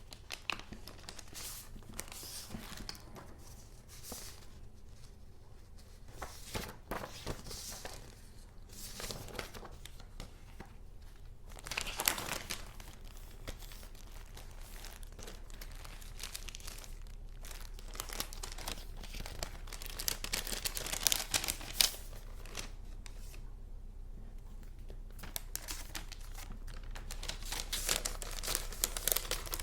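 Paper goods handled by hand, rustling and crinkling in irregular bursts, with louder crinkles about twelve seconds in and again around twenty-one seconds.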